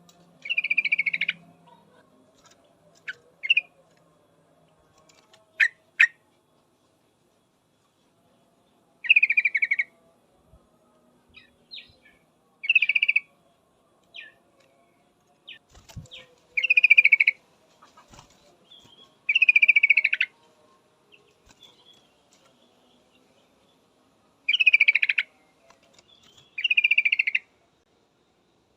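Yellow-vented bulbul (trucukan) calls: about nine short, bubbling phrases at irregular intervals, with a few single sharp chirps between them. This is the female's call used to draw males to answer.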